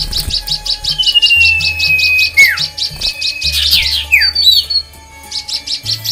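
Several aviary songbirds calling together: a rapid series of high chirps, about eight a second, for the first two seconds or so, a long, slowly falling whistle, and several short down-slurred whistled calls.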